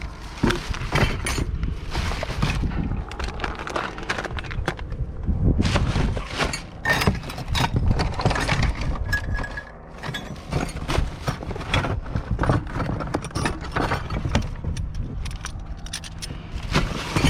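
Scrap metal and junk being rummaged through and handled by hand, clinking, scraping and clattering with many small irregular knocks. A brief squeak sounds about halfway through.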